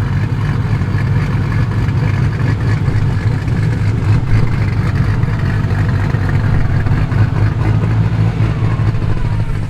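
Performance car engine running at low revs as the car rolls in, a loud, steady, deep rumble.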